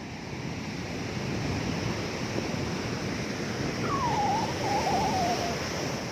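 Heavy monsoon surf of the Arabian Sea breaking on the beach, a steady rushing wash that swells toward the middle. A single wavering call, falling in pitch and lasting about a second and a half, sounds faintly over it a little past the middle.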